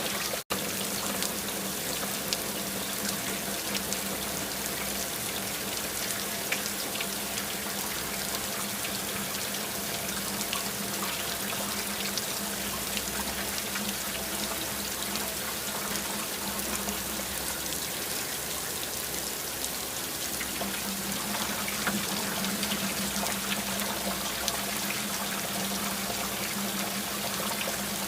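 Steady rain falling, many individual drops ticking over an even wash of water noise, with a constant low hum underneath. The sound cuts out for an instant about half a second in.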